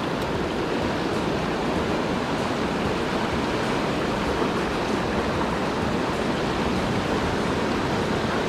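Steady rushing of creek water, running high and turbulent with the dam opened.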